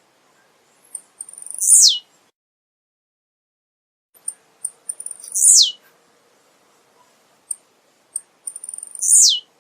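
Male blue-black grassquit (tiziu) singing three short songs, about three to four seconds apart. Each is a few quick high ticks followed by a loud, very high note that sweeps steeply down in pitch.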